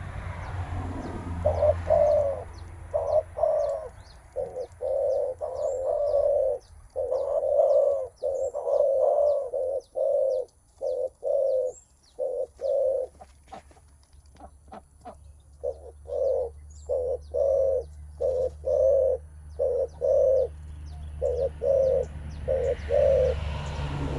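Spotted dove (terkukur) cooing in a long run of short repeated coos, the 'menguku' call a male gives when facing a rival and ready to contest. Faint, short high chirps sound throughout.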